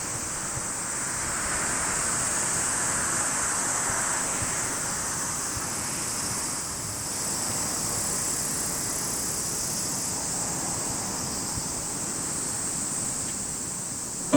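Steady outdoor ambient noise: an even rushing sound that swells slightly a couple of seconds in, with a steady high-pitched hiss above it.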